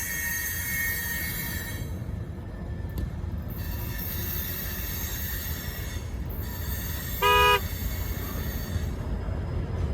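Freight cars rolling past with a steady low rumble, their high wheel squeal fading out about two seconds in. About seven seconds in there is one short horn honk, under half a second long.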